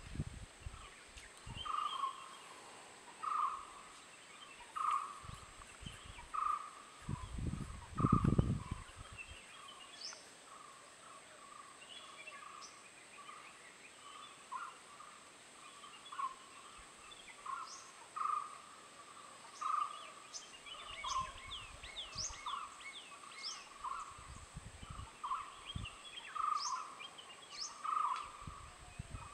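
A bird repeats one mid-pitched note about every second and a half, with other birds chirping and giving quick falling whistles in the background, thicker in the second half. A few low rumbling bumps, the loudest sounds here, come about seven to eight seconds in.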